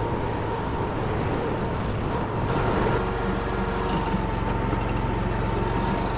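Honda gas engine of a Derette DRT450 mini skid steer running steadily, with a thin steady whine over it; the note shifts slightly about three seconds in.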